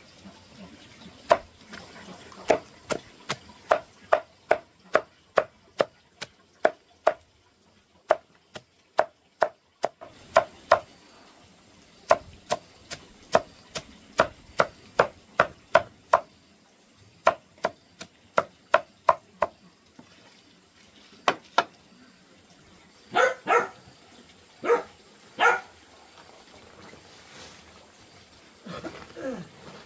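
Knife chopping on a cutting board in steady strokes, about two to three a second, for most of the stretch. A few short pitched calls follow near the end.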